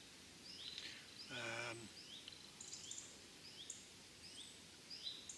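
Woodland birdsong: a bird repeating short, high, rising chirps, about three a second. About a second and a half in, a man's voice gives a brief hum.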